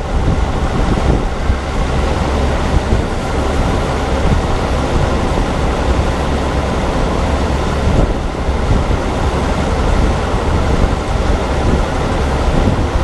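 Farm harvest machinery running steadily, its engine noise mixed with a heavy rumble of wind on the microphone.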